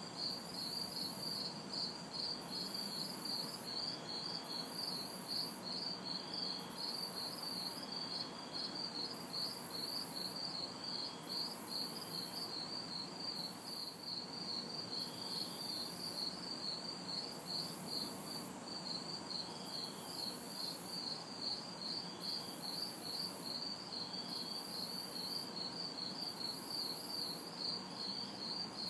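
Night chorus of crickets chirping in a rapid, steady rhythm, with a very high insect buzz, cicadas, pulsing on and off about every second and a half. A faint even hiss of distant traffic sits underneath.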